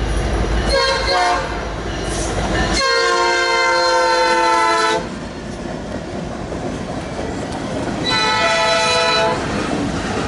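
Diesel freight locomotive's multi-tone air horn sounding three blasts: a short one about a second in, a long one of about two seconds, and another of just over a second near the end, over the steady rumble of the passing train.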